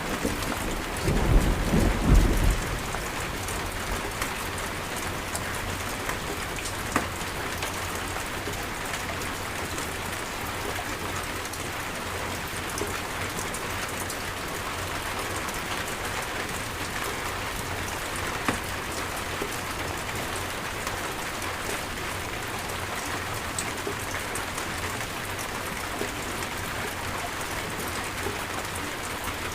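Steady rainstorm, rain falling hard on surfaces. A low thunder rumble comes about a second in and fades within a couple of seconds, with a few louder drop hits later.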